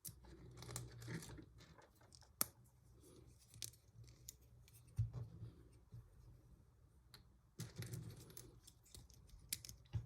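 Faint clicks and rustling of plastic LEGO pieces being handled and snapped together, with a few sharper clicks.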